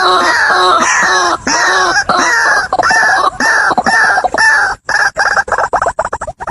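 White-breasted waterhen calling: a loud run of repeated notes, each rising and falling in pitch, about three a second. About five seconds in they break into faster, shorter, stuttering notes.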